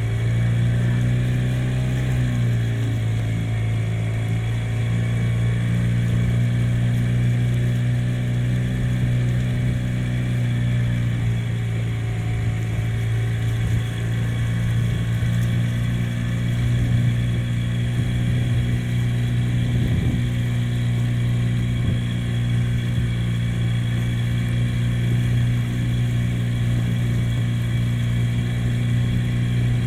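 Steady low engine drone holding one pitch, with a faint high whine above it; the pitch shifts slightly about two seconds in.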